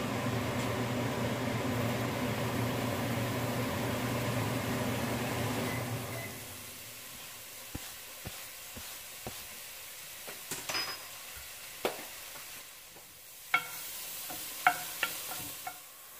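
Mushrooms sizzling in hot olive oil in an enameled pot, with a wooden spoon stirring and knocking against the pot several times in the second half. A steady hum fills the first six seconds, then stops.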